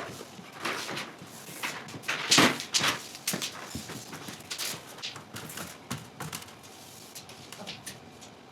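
Scattered light knocks and clicks, irregular, the loudest cluster about two and a half seconds in, growing sparser and quieter toward the end.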